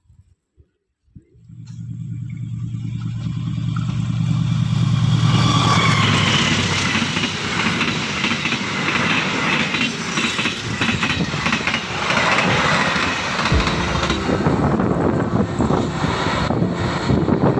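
Diesel-hauled passenger train passing close by: a low engine hum swells in after about a second, then gives way to a long run of wheels rumbling and clacking over the rail joints as the carriages go by.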